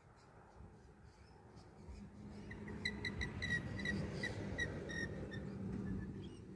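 A rapid series of short, high chirping calls, about four a second, starting about two and a half seconds in and thinning out near the end, over a low rumbling background that grows louder in the middle.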